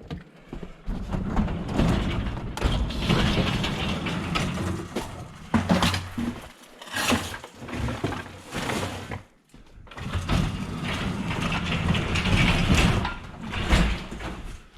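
Snow plow at work: a rough scraping noise as the blade pushes snow, in two long runs with a quieter gap holding a few knocks between them.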